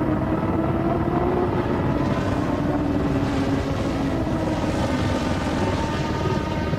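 Formula One racing car engines running, a steady drone whose pitch shifts slowly. A hiss swells in the middle and fades near the end.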